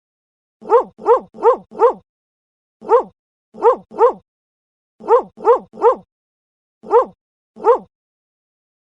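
A dog barking in quick runs of short barks: four, then one, two, three and two, about a dozen in all, with silence between the runs.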